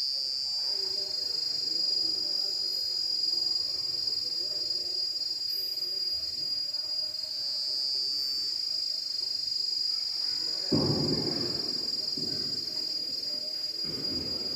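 Insects droning with a steady, shrill, high-pitched buzz that swells and fades twice. A few louder, low, muffled sounds come in near the end.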